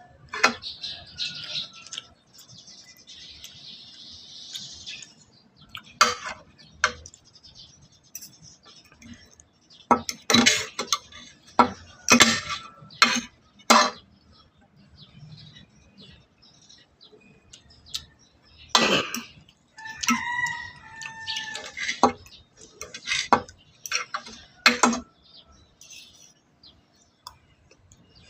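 Utensils clinking and knocking against dishes during a meal, in scattered sharp strokes. About two-thirds of the way through, a rooster crows once, for about two seconds.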